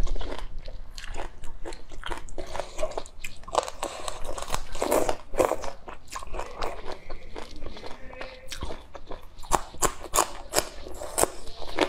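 Crisp crunching and wet chewing of raw green garlic stalks coated in chili sauce, bitten off and chewed in a steady run of crunches. Near the end comes a bite into a fresh red chili pepper.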